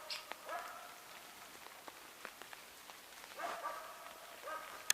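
A hunting dog barking in short bouts, with light rain pattering on an umbrella and a sharp tick near the end.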